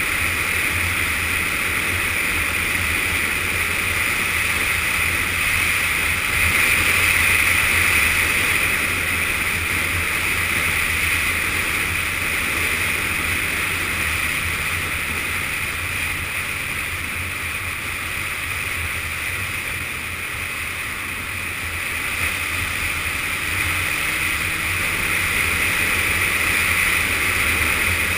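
Yamaha Fazer FZS600 motorcycle riding along at speed: a steady rush of wind over the action camera, with the inline-four engine running underneath and swelling a little a few times.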